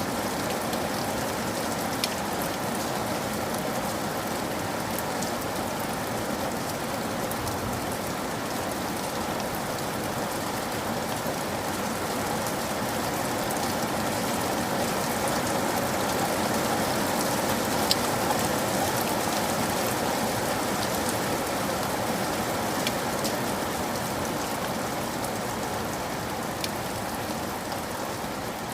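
Steady rain falling, with an occasional sharp drip or tap of a single drop standing out.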